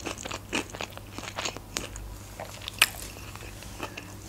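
A person chewing a mouthful of sushi roll: a run of small, irregular mouth clicks, the sharpest nearly three seconds in.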